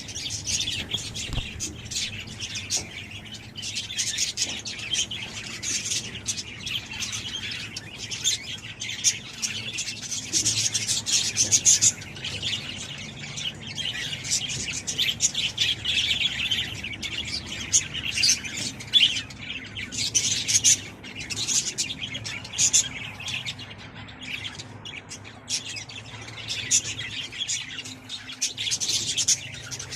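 A colony of budgerigars and cockatiels in an aviary, many birds chirping and chattering at once without a break, with louder single calls standing out now and then. A faint steady low hum runs underneath.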